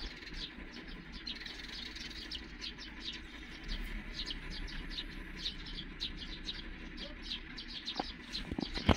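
Birds chirping in quick, short, repeated calls over a low, steady background rumble. A few sharp knocks come near the end, the last one the loudest sound.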